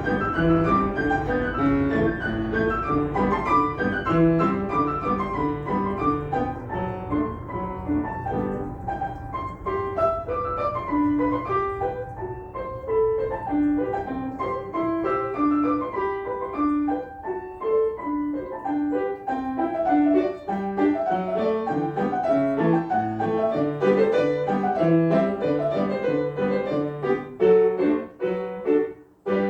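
Piano playing a light melody over a steady accompaniment, closing on a held chord right at the end. A low rumble runs underneath for the first ten seconds or so, then fades away.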